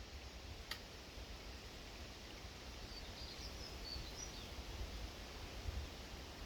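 Outdoor background ambience with a steady low rumble, a single sharp click near the start, and a few faint, high bird chirps about halfway through.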